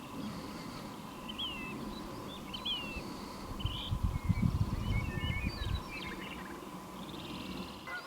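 Small birds chirping and whistling, with many short calls that rise and fall quickly in pitch. A low rumble of wind on the microphone runs through the middle.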